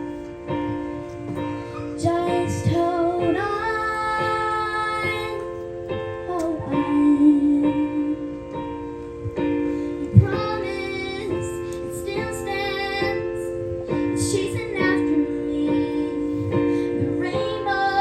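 Young female voices singing a slow, prayerful song over piano accompaniment.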